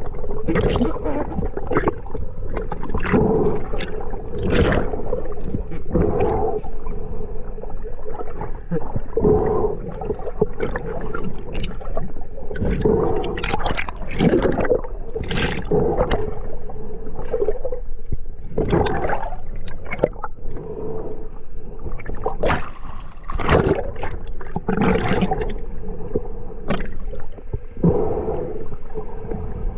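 Water heard underwater: gurgling and bubbling surges come irregularly, about one a second, over a steady low hum.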